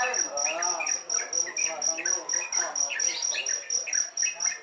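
Yellow-vented bulbul (trucuk) chicks calling with quick, short chirps, several a second, over a steady high pulsing insect trill.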